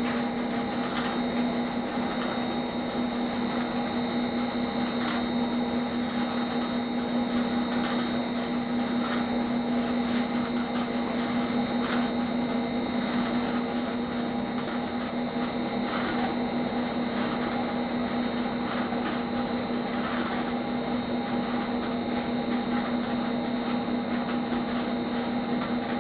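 Industrial machine unit No. 1 running steadily under 30 to 60% load: a constant hum with several steady tones, low and high, and faint irregular ticks. This is the abnormal noise the unit makes at this load.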